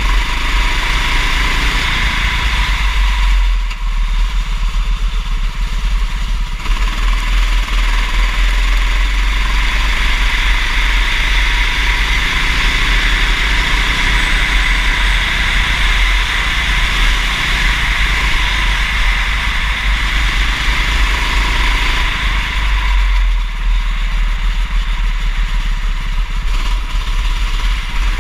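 Kart engine running at race pace, its pitch rising and falling as the throttle is worked through corners, over a loud steady rush of noise.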